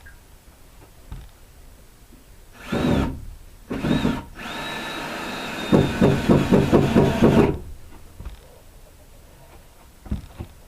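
Ryobi cordless drill boring a hole in wood: two short trigger blips, then about three seconds of steady running. Partway through, the bit judders rapidly as it cuts. The bit is one the user thinks is starting to wear out.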